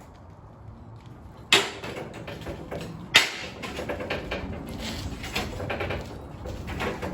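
Two sharp knocks about a second and a half apart, the second the louder, followed by a run of lighter knocks and rattles, as of cut steel plate pieces being handled.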